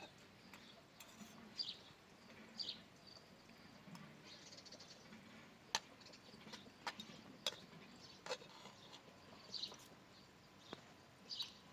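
Faint bird chirps, short high calls every second or two, with a few sharp clicks in between.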